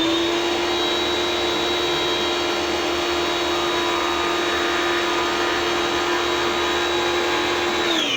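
Tecna electric pressure washer running at a steady whine while spraying soap, then shutting off near the end, its pitch falling as the motor winds down.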